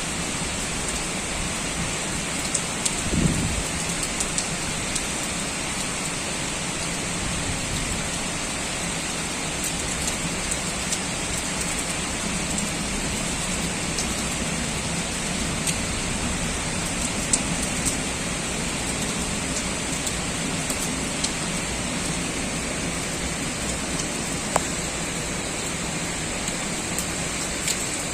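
Heavy typhoon rain falling steadily: a dense, even hiss with scattered sharp drip clicks. A short low rumble comes about three seconds in.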